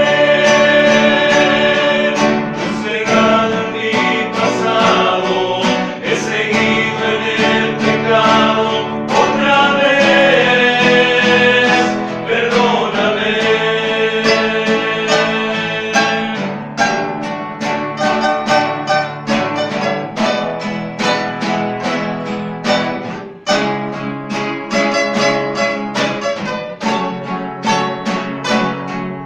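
A men's rondalla: male voices singing in harmony over plucked and strummed guitars, then, from about halfway, the guitars carry on alone in an instrumental passage.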